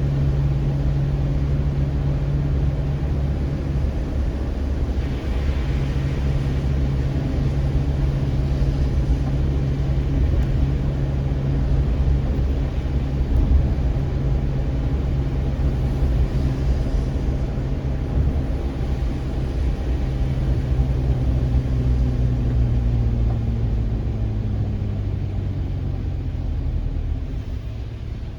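Motor vehicle engine running, a steady low hum with a slight fall in pitch about three-quarters of the way through.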